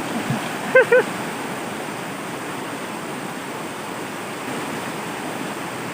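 Steady rushing of water over rapids, with a short voiced exclamation just under a second in.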